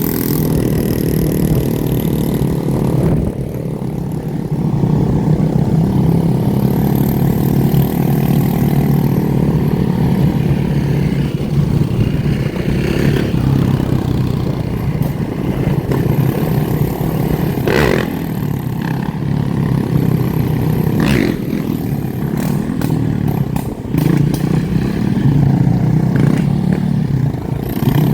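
Motorbike and dirt bike engines running and revving close by, with a few sharp clicks in between.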